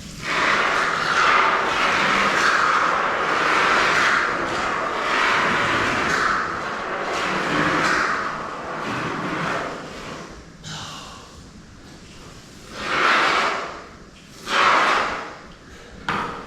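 Can of expanding spray foam hissing as foam is dispensed into gaps, one long spray of about ten seconds, then two short spurts near the end.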